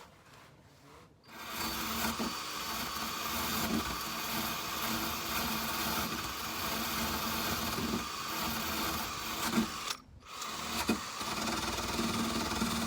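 Power tool fitted with a small wire wheel, scrubbing surface rust off a car's underbody. It starts about a second in and runs steadily with a humming whir, cuts out briefly about ten seconds in, then starts again.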